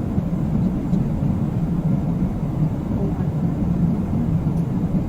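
Steady cabin noise of an airliner in flight, a low, even roar with no change.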